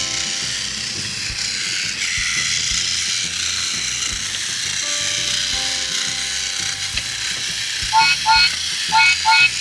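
Battery-powered Thomas toy train running on its track, its small electric motor and gears whirring steadily, with soft background music. Near the end come four short high beeps in two quick pairs.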